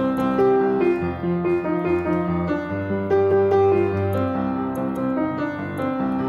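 Piano music, a melody over sustained bass notes at a steady pace.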